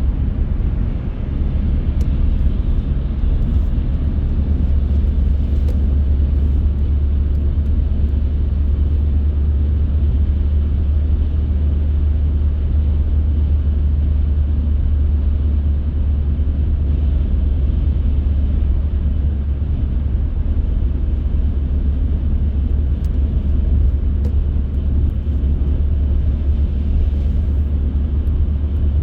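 Steady low road and engine rumble of a moving car, with faint clicks here and there.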